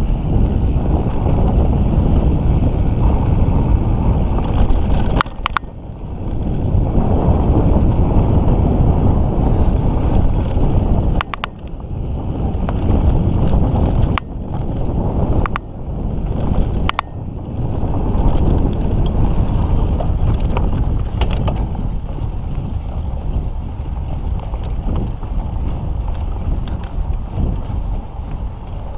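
Mountain bike riding a dirt trail: wind buffeting the microphone over the rumble of the tyres, with scattered clicks and knocks from the bike. The rumble drops away briefly a few times.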